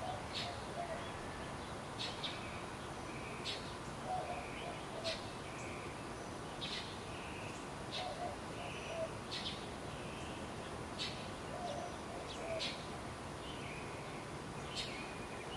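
Birds calling outdoors: short sharp chirps about once a second, with a few lower calls mixed in, over a steady background hiss.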